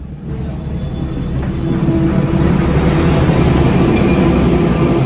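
A train running past, a loud low rumble that swells about a second in and then holds steady.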